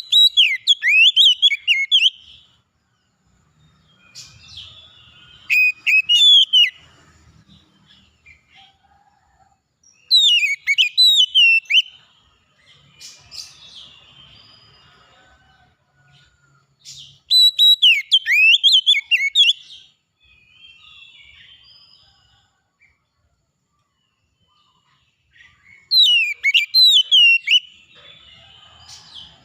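A songbird singing loud, quick, warbling phrases of about two seconds each, five times, with fainter calls from other birds in the pauses.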